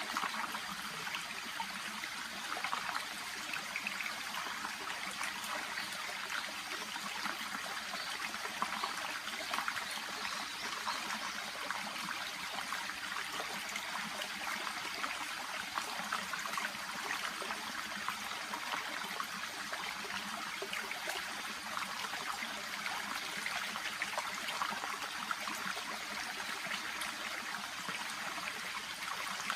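Small shallow brook babbling steadily, an even trickling rush of water with many tiny splashes.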